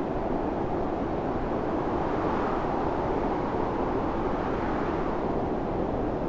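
Storm wind blowing steadily in a low, even rush, swelling a little in the middle.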